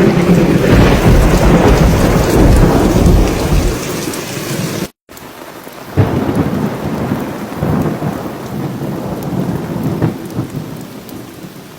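Heavy rain with loud rolling thunder for the first few seconds. After a brief break, rain keeps falling, with a sudden loud crack about six seconds in and another near ten seconds, growing fainter toward the end.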